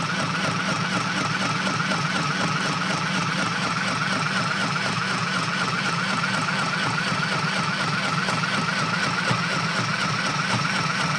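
SM-202A mini electric sewing machine running at a steady speed while stitching cloth: its small motor whirs with a slightly wavering whine over the needle mechanism's continuous rattle.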